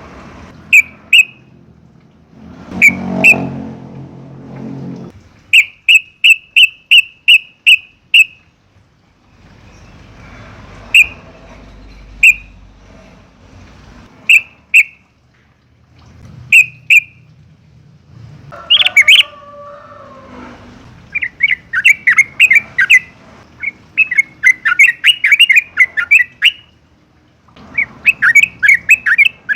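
Yellow-vented bulbul calling: short, sharp chirps, some single and some in quick runs of several, with rapid chattering bursts in the second half. A brief low rumble sits under the calls a few seconds in.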